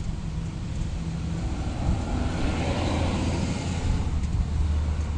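A vehicle passing: a steady low rumble with a noisy swell that builds about two seconds in and fades toward the end.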